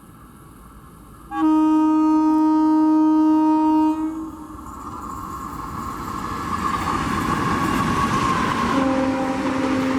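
Indian Railways locomotive horn sounding one long steady blast for about three seconds, a second in, then the rumble of an express train approaching at speed and growing louder; a second, lower-pitched horn blast starts near the end.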